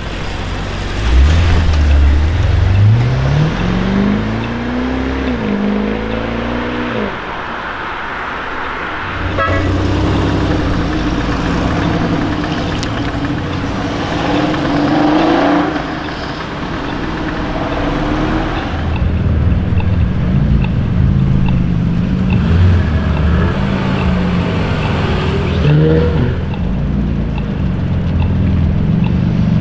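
High-performance car engines and exhausts revving and accelerating away, one car after another. The pitch climbs steeply in the first few seconds, then drops about seven seconds in; further engine tones and short revs follow.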